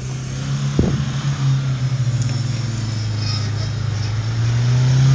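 Mahindra Thar engine running with a steady low drone that grows louder about four and a half seconds in, with a single knock about a second in.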